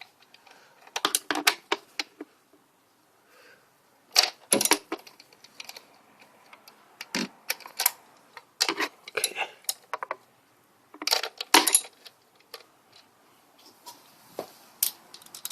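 Metallic clicking and clinking from a ratchet and socket turning 10 mm bolts, coming in short bursts of quick clicks with pauses between them.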